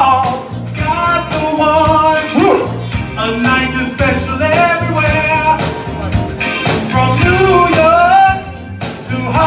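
Live Motown-style band playing a song: a singer's voice over drums and bass with a steady beat.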